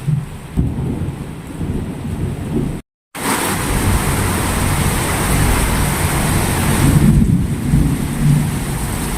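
Heavy rain pouring, with a low rumble underneath. The sound cuts out completely for a moment about three seconds in, then the rain returns louder and brighter.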